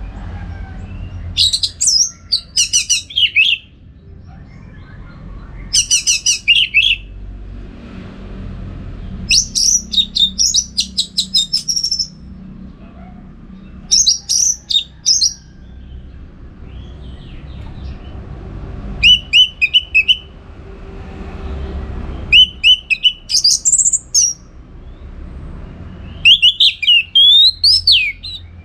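Orange-headed thrush singing in about seven short phrases, each a quick run of high, varied, whistled notes, a few seconds apart. A low, steady background rumble runs underneath.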